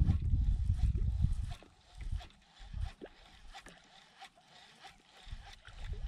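Wind buffeting the microphone with a low rumble, dying away about a second and a half in and leaving a quieter stretch with light scattered clicks.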